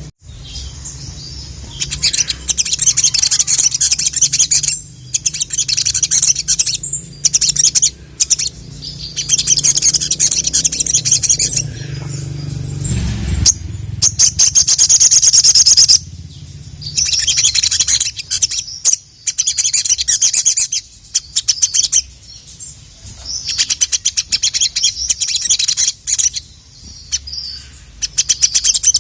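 Sogon (sogok ontong) sunbird singing in rapid, high, chattering trills. The song comes in bursts of a few seconds with short pauses between them, over a low steady hum.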